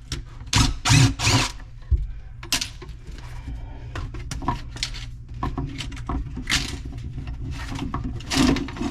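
Irregular knocks, clatter and short scraping bursts of hand tools and a screw being worked out of a wooden cabinet.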